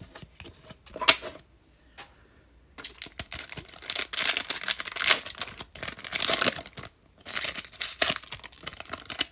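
Trading-card pack wrapper being torn open and crinkled: a few sharp clicks, a brief pause, then two long stretches of dense crackling.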